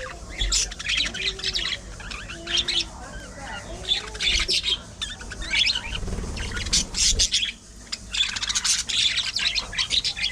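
Budgerigars chattering, with rapid chirps and short squawks in quick succession. A brief low rumble comes about six seconds in.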